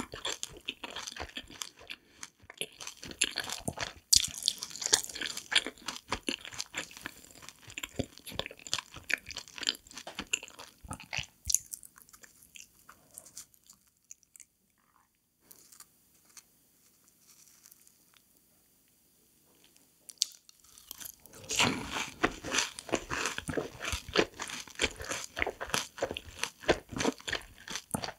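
Close-up mouth sounds of chewing crispy deep-fried cheese snacks: dense, crackly crunching that fades to near quiet for several seconds midway, then starts again loudly about 21 seconds in with a bite of a sauce-dipped cheese ball.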